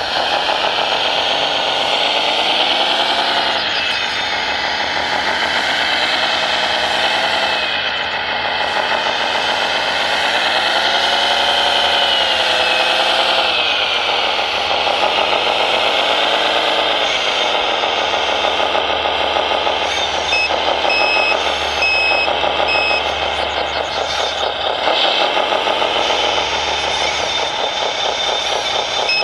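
Radio-controlled hydraulic construction models working, their motor sound rising and falling in pitch again and again as the machines load up and ease off. From about twenty seconds in, a reversing beeper sounds in a steady on-off pattern.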